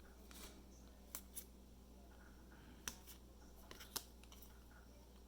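Trading cards being handled and flipped through, giving a few faint, sharp card snaps and clicks over quiet room tone.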